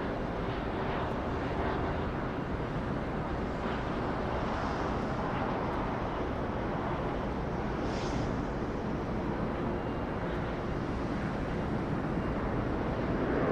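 Steady jet aircraft engine noise, an even rumble with no distinct events.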